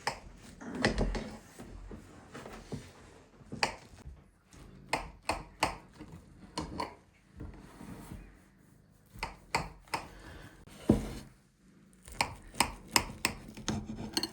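Irregular clicks and knocks of tableware being handled at a meal: bowls, spoons and dishes set down and moved, with one louder knock about eleven seconds in and a quick run of clicks near the end.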